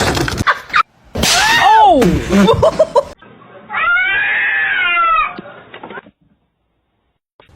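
Cats meowing and yowling: loud drawn-out meows that rise and fall in pitch, then a wavering yowl about four seconds in, cutting off into silence near the end.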